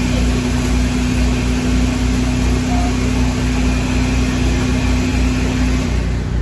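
Running machinery, a loud steady hum with a low rumble and a held tone that cuts off about six seconds in.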